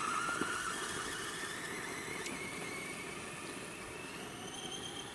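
Electric motor and gears of a Traxxas BigFoot RC monster truck whining, slowly rising in pitch as it gathers speed and gradually getting quieter, over the rustle of its tyres.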